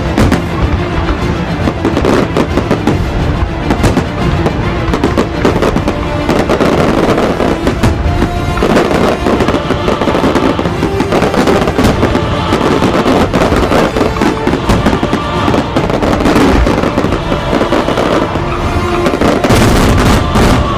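Fireworks going off in rapid, dense succession, with music playing over them.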